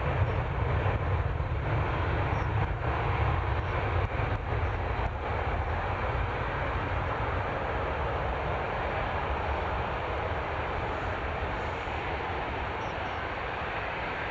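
Jet airliner's engines at takeoff thrust, a steady rumble and hiss; the deep rumble fades after about five seconds as the aircraft climbs away.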